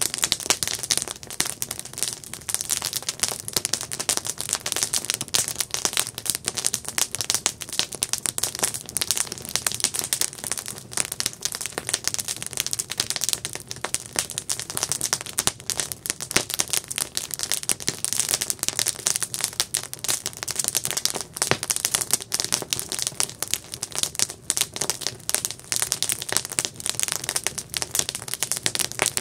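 Wood campfire crackling and popping continuously, with dense irregular snaps and a faint hiss of burning wood.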